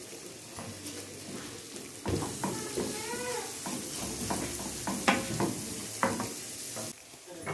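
Sliced onion sizzling in hot olive oil in a frying pan as it is stirred with a wooden spoon, with a few knocks of the spoon against the pan. The sizzle grows louder about two seconds in and cuts off suddenly near the end.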